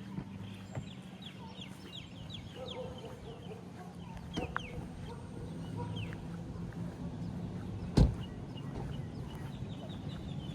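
Birds chirping and calling in quick short falling notes, over a low steady hum. A single sharp knock about eight seconds in.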